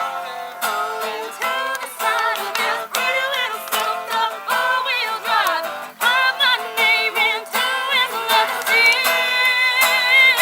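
Acoustic guitar strummed with voices singing a country song along to it.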